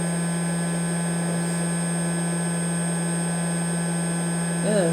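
Steady electrical hum from repair-bench equipment, with a strong low tone and several fainter fixed higher tones. A short murmured voice sound comes near the end.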